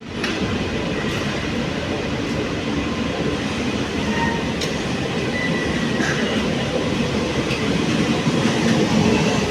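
Kolkata Metro train running: a steady, loud rumble of wheels on track, with a few sharp clicks and brief faint squeals, growing slightly louder.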